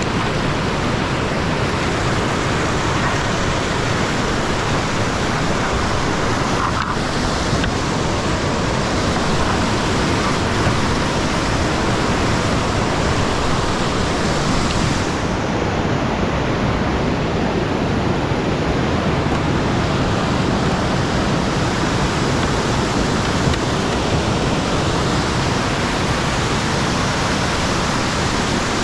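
Whitewater of a creek rushing over rapids, a loud, steady noise throughout.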